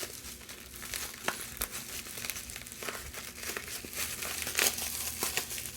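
Plastic bubble wrap crinkling and crackling with irregular small clicks as it is unwrapped by hand.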